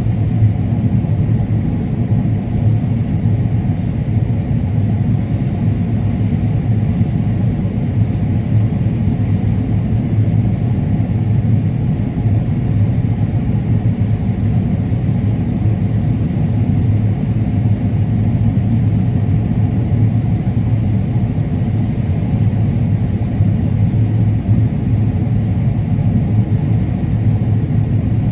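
Combine harvester running steadily while cutting corn: a constant low drone that holds the same level throughout.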